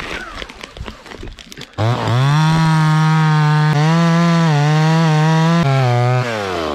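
Two-stroke chainsaw revved up to full throttle about two seconds in and held there, cutting, with the pitch wavering slightly under load. Near the end it eases off. Before the saw comes in there is scattered clicking and scraping.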